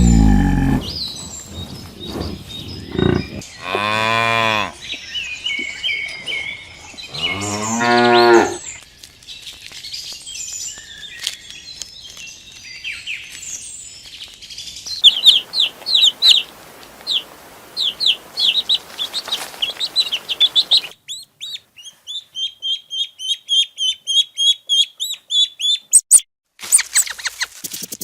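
Cow mooing twice, two long calls a few seconds apart, then small birds chirping in quick repeated series.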